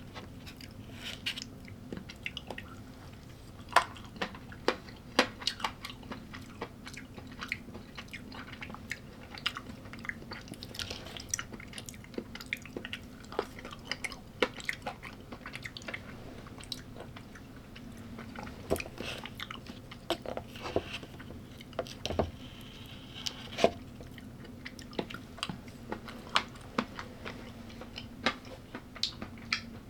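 Close-miked chewing and crunching of food, with irregular crisp clicks of bites throughout. A faint steady low hum lies underneath.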